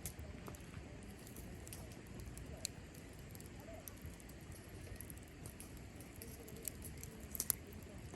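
Cherry-wood campfire crackling, with scattered sharp pops and a quick cluster of louder pops about seven and a half seconds in, over a low steady rumble.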